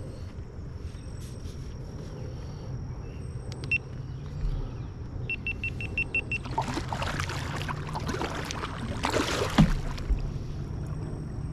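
Kayak paddle splashing in creek water, a few strokes over several seconds, the loudest near the end. Just before them comes a quick run of about seven short, high electronic beeps.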